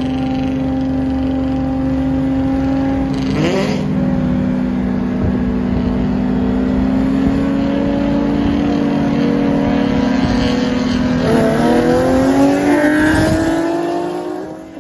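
Nissan 370Z 3.7-litre V6 engines at full throttle in a roll race, the engine note held high and climbing slowly, with a brief jump in pitch about three and a half seconds in. About eleven seconds in the note sweeps up again, then the sound drops away near the end as the cars lift off.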